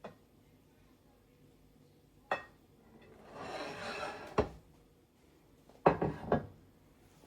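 Dishes and kitchenware being handled: a single knock, a second of rustling scrape ending in a knock, then a quick run of three or four clatters.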